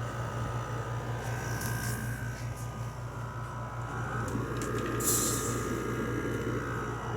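LG 6000 BTU window air conditioner running, with a steady low hum and fan noise. A brief hiss sounds about five seconds in.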